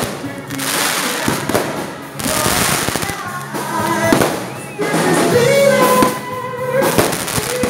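Fireworks going off, a run of bangs and crackling bursts, with music playing underneath.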